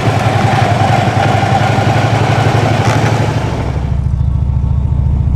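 Motorcycle engine running while riding, with wind rushing over the microphone. About three seconds in the engine note drops lower and the wind noise falls away as the bike slows down.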